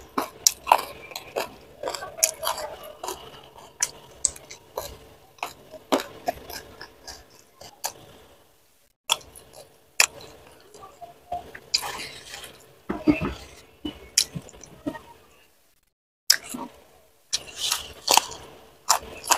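Close-miked chewing of food, with many sharp, wet mouth clicks and a few crunches. The sound drops out briefly twice, about 9 s and 16 s in.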